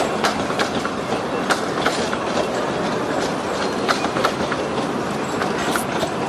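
Narrow-gauge train running on the rails: a steady rumble broken by irregular metallic clicks and knocks from the wheels and track, with a brief high squeal near the end.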